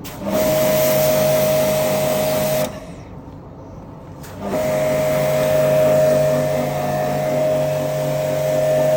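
Electric pressure washer running, its motor hum and a steady whine under a loud hiss of spray. It runs for about two and a half seconds, stops for about two seconds, then starts again and keeps going.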